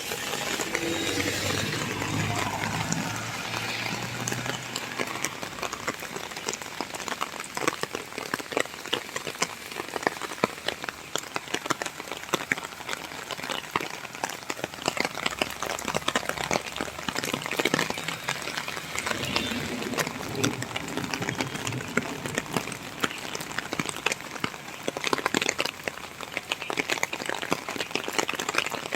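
Rain falling steadily, a dense patter of many drops striking surfaces.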